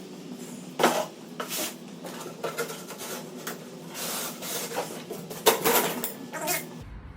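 Rustling, scraping and knocking of packaging and parts being handled, in irregular short bursts. Beneath it runs a faint steady hum.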